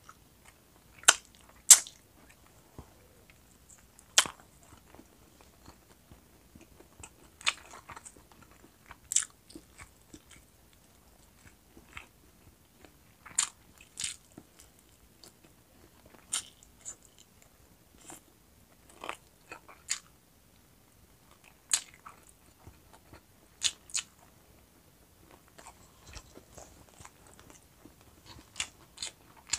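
Close-miked eating of roast chicken wings: chewing broken by sharp crunches every second or two.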